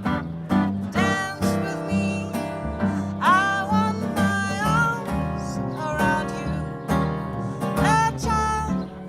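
Live acoustic band playing a jazz song: acoustic guitar strummed in a steady rhythm over a bass line, with a melody line on top that slides into its notes.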